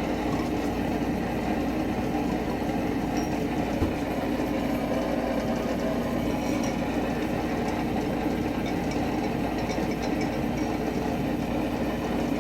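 A steady, even mechanical drone that holds at one level with no rhythm or change in pitch, with a few faint ticks over it.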